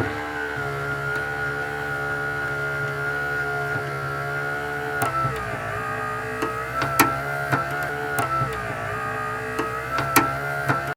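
A motor running steadily with a whine of several held tones, with a few sharp clicks or knocks, the loudest about seven seconds in.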